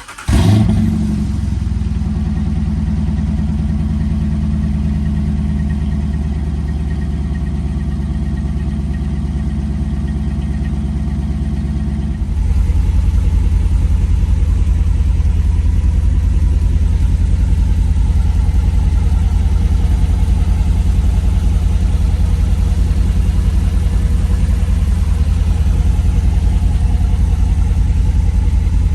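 2017 Dodge Durango R/T's 5.7 L Hemi V8 starting and idling through a no-weld X-pipe with the rear muffler deleted. About twelve seconds in the sound steps up louder and deeper, then runs steadily.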